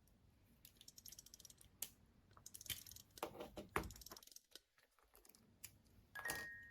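Faint small clicks and rattles of hard plastic parts as an assembled plastic model kit figure is handled, a quick run of them in the first half. Near the end a chiming tune starts.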